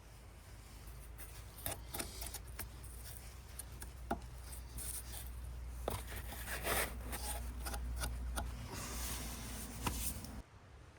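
Workshop handling noise on the scooter's rear-wheel parts: rubbing and scraping, with scattered light clicks and knocks, over a low steady hum.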